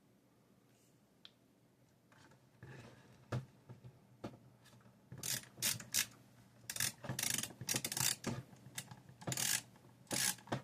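Small screws being driven into a graphics card with a screwdriver. About two and a half seconds in, a run of short scraping bursts and clicks begins and grows more frequent.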